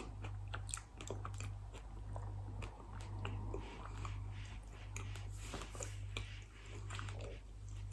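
A person chewing food close to the microphone: irregular wet mouth clicks and soft crunches, over a steady low hum.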